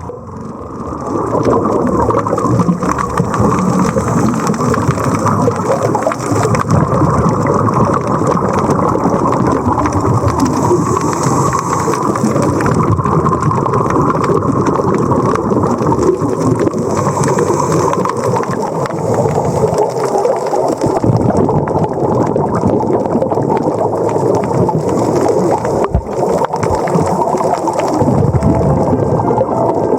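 Loud, steady rushing and bubbling of water, with brief dips now and then.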